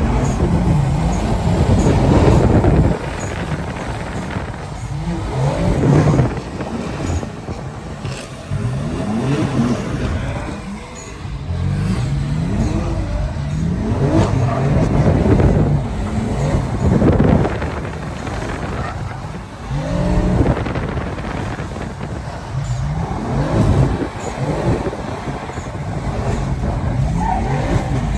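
BMW M3's S55 twin-turbo straight-six revved hard and let fall again and again, its pitch rising and dropping many times in succession, as the car is driven in donuts.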